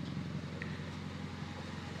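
2008 Honda Civic's R18 1.8-litre four-cylinder idling steadily through a Skunk2 MegaPower cat-back exhaust and Weapon R header, with a very deep tone.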